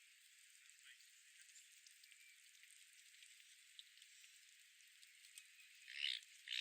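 Faint park ambience: a soft steady hiss with scattered faint ticks, then two short bird calls close together near the end, about half a second apart.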